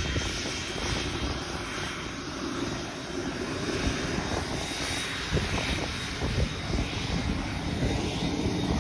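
Airliner's engines running, a steady rush with low rumble and a thin high whine.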